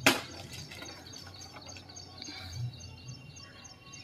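A bird chirping in quick repeated notes, several a second, over faint outdoor background noise. It is preceded by a single short, sharp sound right at the start, the loudest moment.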